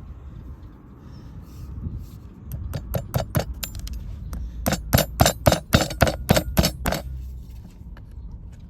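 Farrier's hammer striking metal: a few scattered blows, then a quick run of about ten ringing strikes, four or five a second, that stops about seven seconds in.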